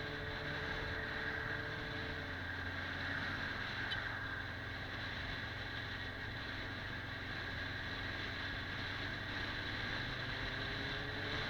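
Kawasaki 400 cc motorcycle engine running under way at a steady pace, its note easing down in the first couple of seconds and slowly climbing again near the end.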